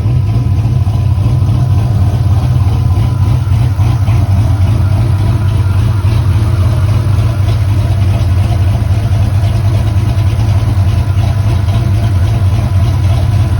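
Chevy car engine idling steadily with a low, even drone, left running to warm up while the cooling fans have not yet kicked on.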